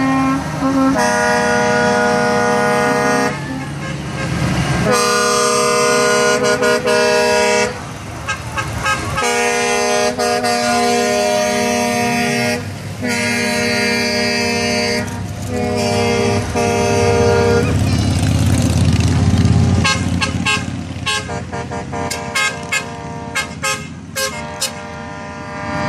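Convoy trucks' air horns blasting in a run of long held blasts, one after another. Then a heavy truck engine rumbles past close by, with sharp crackling near the end.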